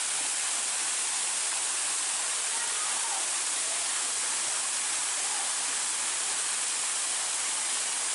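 Waterfall's falling water, a steady even rush and hiss.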